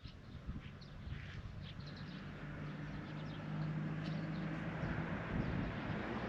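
Small birds chirping outdoors over a low, steady motor hum that slowly grows louder.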